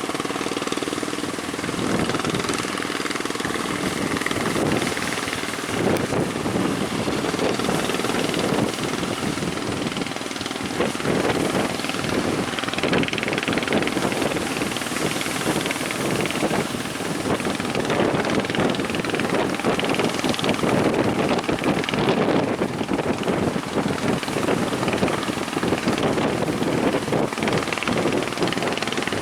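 Boat engine running steadily with a fast pulsing beat, mixed with wind and sea noise as the boat heads out through waves and strong wind.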